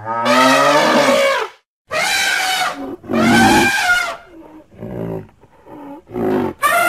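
A series of loud wild-animal calls, each a second or so long with short gaps between, every call a pitched, shifting cry, and softer grunting sounds a little past halfway before another loud call near the end.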